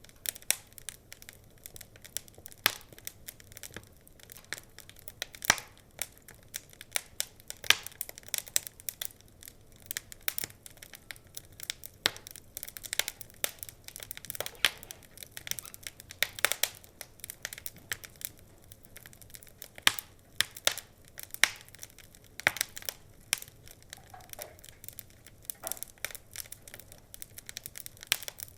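Wood fire crackling and popping: irregular sharp snaps, some loud, over a faint steady hiss.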